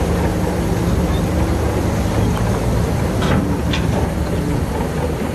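Shantui bulldozer's diesel engine running steadily under load with its tracks rattling, and two short high squeaks a little over three seconds in.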